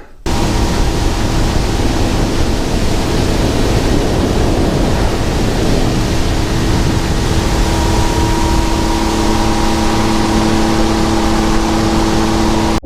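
A boat's outboard motor running at speed under a steady rush of wind and water, with a faint steady engine hum beneath. It starts abruptly and cuts off suddenly.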